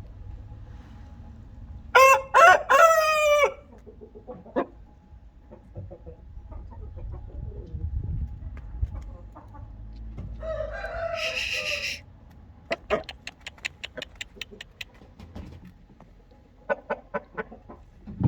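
Shamo fighting rooster crowing once, loud, about two seconds in, followed by a second, harsher call around eleven seconds. Later come runs of quick, sharp taps.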